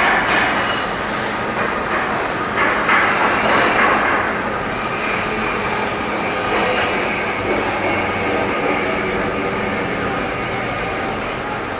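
Steady, loud ship's engine-room machinery noise: a continuous mechanical din with several steady hums running under it, a little louder in the first few seconds.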